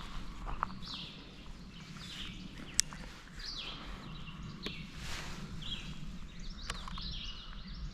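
Songbirds singing in spring woodland: a short, high, stepped descending phrase repeated every second or two, over a steady low background rumble, with a few sharp clicks.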